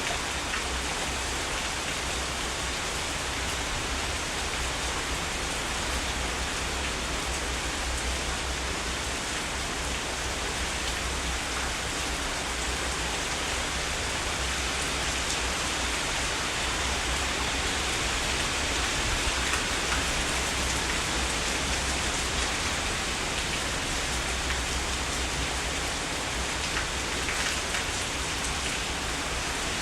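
Steady heavy rain falling, an even hiss of many drops with no thunder heard.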